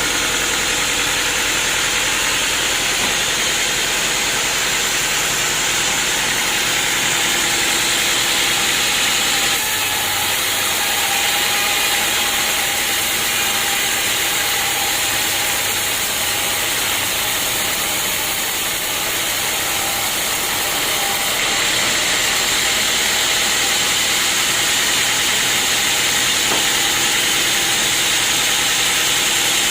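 Sawmill machinery running steadily: a dense hiss over a faint machine hum, shifting slightly in tone about ten seconds in and again around twenty-one seconds.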